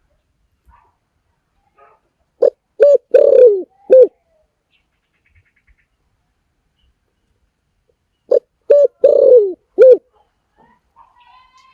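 Spotted dove cooing: two identical calls about six seconds apart. Each is four notes, two short, then a longer one, then a short one.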